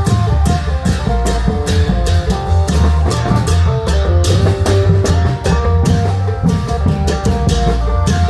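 Isan klong yao long-drum band playing live: dense, driving drumming with a strong bass under a fast plucked-string melody in the phin style.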